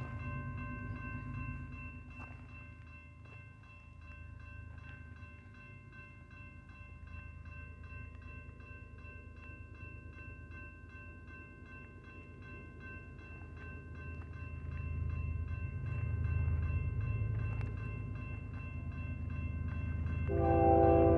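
Approaching freight train led by a diesel locomotive: a low rumble that grows louder over the last several seconds, with the locomotive's horn starting to blow as a chord of several notes just before the end. Steady high ringing tones from the lit grade-crossing signals run throughout.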